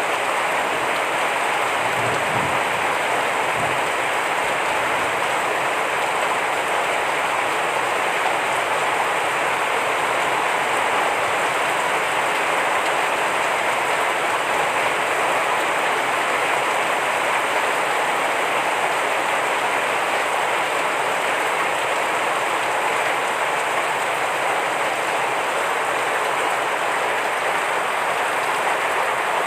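Heavy rain falling steadily: an even, unbroken hiss of dense drops.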